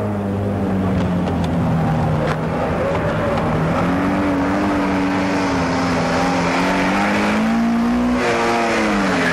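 A car engine revving hard while the car is driven through a cone slalom. Its pitch holds at first, steps up about four seconds in, climbs again near the end and then starts to drop.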